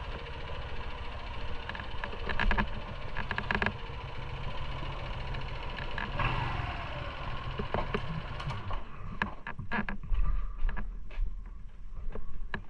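Motorcycle riding noise, engine and wind rumble together; a little over eight seconds in it drops away, leaving scattered clicks and knocks.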